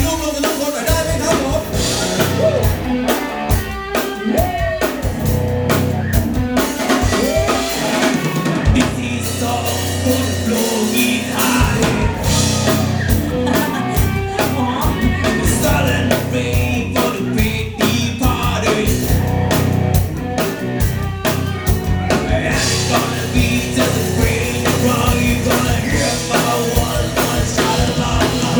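A band playing a pop-rock song: a drum kit keeping a steady beat over bass, with a sung vocal line.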